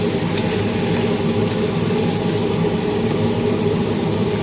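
Chicken pieces sizzling in a hot pot with onion, garlic and tomato, over a steady mechanical hum.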